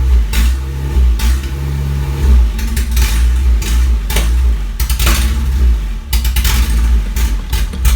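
Freshly rebuilt Isuzu 4ZE1 four-cylinder petrol engine running loud and uneven on its first start, with no exhaust fitted, so it sounds straight off the manifold, with irregular sharp cracks over a deep rumble.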